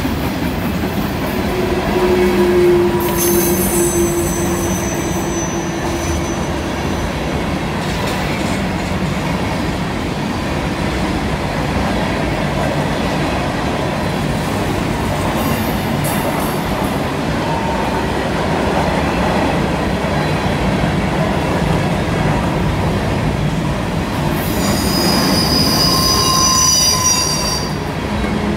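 Freight train rolling through a curve with a steady rumble and clatter of wheels on rail. Wheel flanges squeal high on the curved track at about two seconds in and again near the end.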